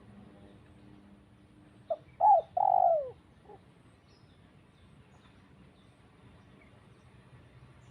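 A bird calling once: a short note, then a louder, longer falling note, ending with a small trailing note. It is dove-like and cooing in character.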